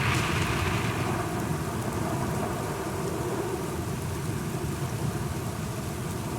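Steady rain falling, with a low, continuous rumble of thunder underneath. A brighter burst of rain hiss fades within the first second.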